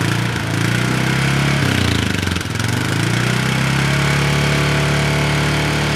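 ATV engine running close by, its revs dipping and picking up a couple of times before holding steady at a higher pitch for the second half.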